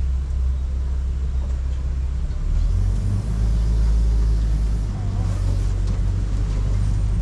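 Safari ride truck's engine running with a steady low rumble under riders aboard; the engine note steps up about two and a half seconds in and holds there.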